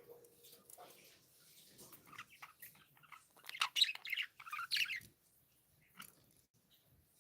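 Pet budgerigars chirping: a quick run of short chirps and chatter that builds through the middle and stops about two-thirds of the way in.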